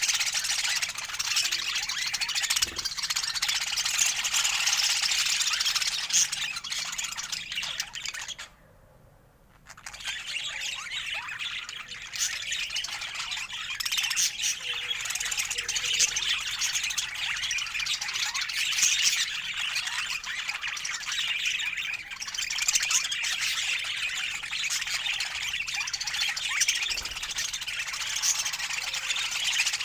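Budgerigars chattering and warbling continuously, with many quick chirps and squawks overlapping. The sound drops out for about a second some nine seconds in, then resumes.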